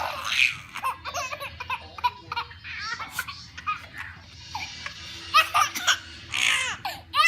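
A young child laughing in a run of short high-pitched squeals and giggles, loudest about five seconds in and again near the end.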